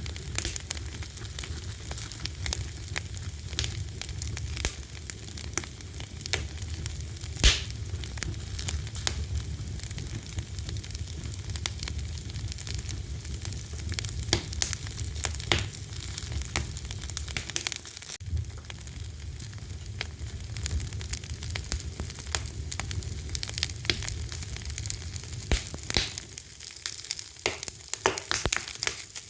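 Fire crackling: a dense run of small pops and snaps, with one sharp louder pop about seven and a half seconds in, over a steady low rumble.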